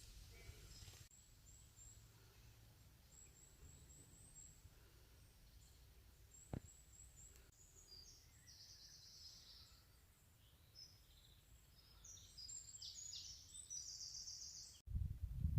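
Faint, high chirping of small birds in short runs over a quiet low rumble, growing busier near the end, with one sharp click about six seconds in. Just before the end it cuts to a loud, low, irregular thumping.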